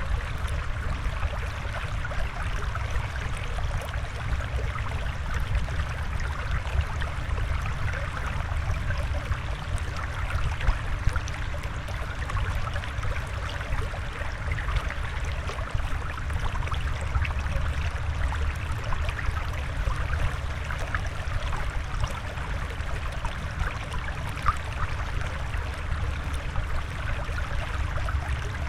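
Steady flowing, trickling water, with a low rumble underneath and small splashes and bubbles through it.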